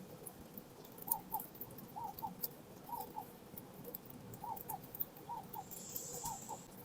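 Wild birds at a seed feeding spot: many small sharp ticks of pecking at seed, with a bird calling over them in short paired notes, a pair about once a second.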